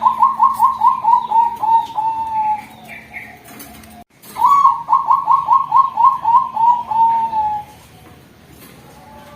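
Female Bangkok zebra dove (perkutut) singing two song phrases, each a fast run of about ten short cooing notes that ends in a longer drawn-out coo; the second phrase starts about four seconds in.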